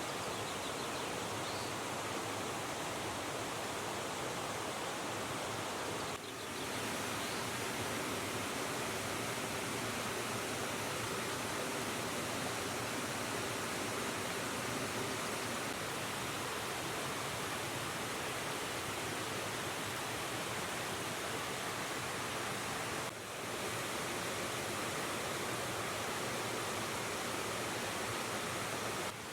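River water rushing: a steady, even wash of noise, briefly dipping twice.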